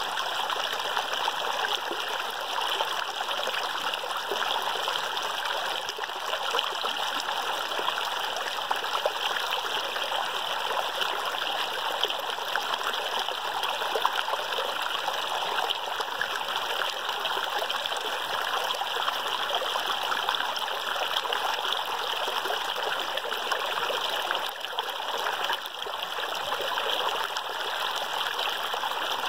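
A stream running steadily, an even rushing of water that does not change.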